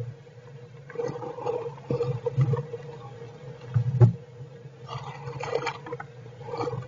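Squirrels shifting in their nesting material: irregular rustles and scratches, with one louder bump about four seconds in, over a steady low hum.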